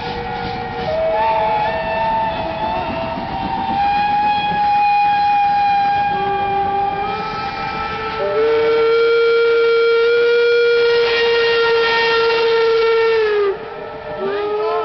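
Several old railway locomotives sounding their whistles at once: long held tones at different pitches overlap and come and go. The loudest, a low steady note, holds for about five seconds in the second half and cuts off suddenly near the end.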